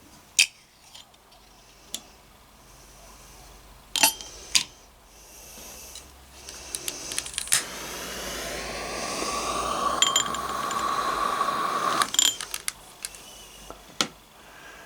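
Clinks of a kettle being handled, then water running into it from a tap for about six seconds, the pitch of the filling rising as the kettle fills, and the flow cutting off suddenly before a few more clinks.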